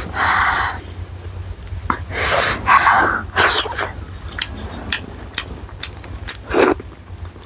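Close-up eating noises: several short hissing sniffs or sharp breaths, with small wet chewing and mouth clicks in between. The hissing breaths are the reaction to very spicy food.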